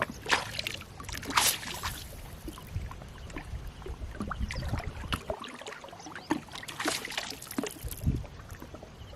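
Water splashing and sloshing around a small boat on a river, with irregular splashes and knocks, the strongest about half a second and a second and a half in and again around seven seconds in.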